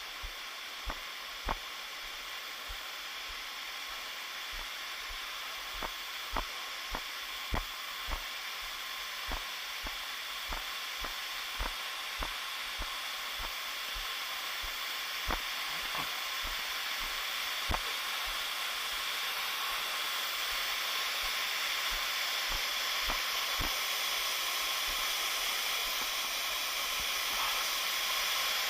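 Waterfall rushing steadily and growing slowly louder, with scattered sharp taps and knocks, most of them in the first two-thirds.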